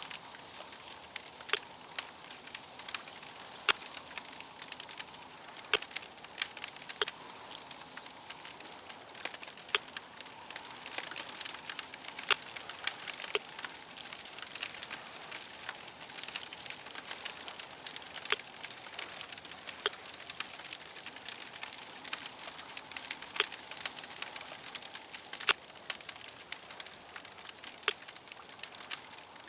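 Wood fire crackling, with many irregular sharp pops over a steady hiss.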